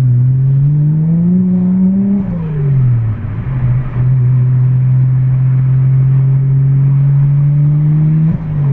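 The Toyota Chaser's 1JZ-GTE twin-turbo inline-six, heard from inside the car, revving up through a gear for about two seconds. The revs drop at a shift near three seconds. After that it pulls steadily with the pitch slowly climbing, and the revs fall again near the end.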